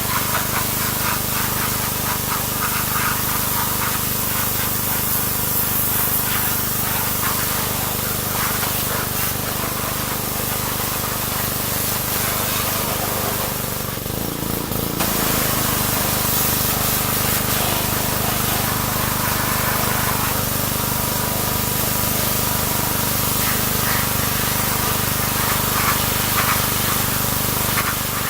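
Pressure washer running and spraying steadily, the hiss of the jet over the machine's steady hum. The spray cuts out for about a second midway while the machine keeps running.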